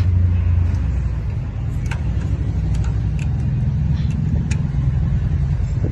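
Steady low mechanical rumble, with a few light clicks now and then.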